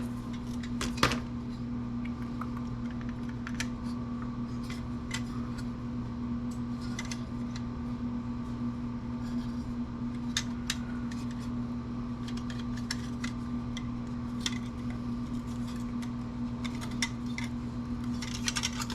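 Scattered light clicks and taps of small metal and plastic computer parts being handled and pried apart during disassembly, over a steady low hum.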